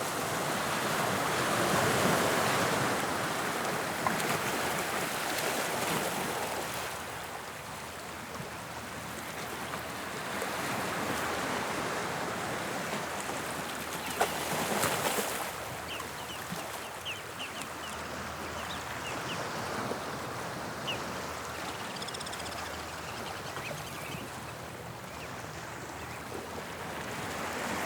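Sea waves of the English Channel breaking and washing onto the shore, the surf swelling and ebbing in several surges.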